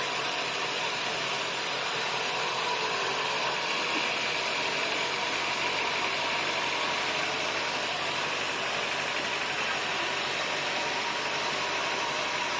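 Sawmill machinery running steadily: an even mechanical hum with a few held tones, no change in load.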